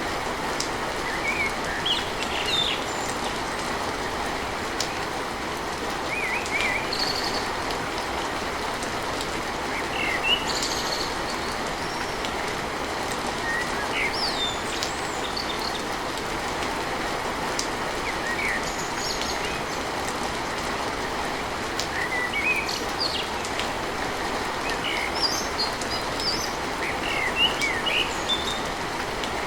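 Steady rain on a tin roof, with birds chirping off and on over it.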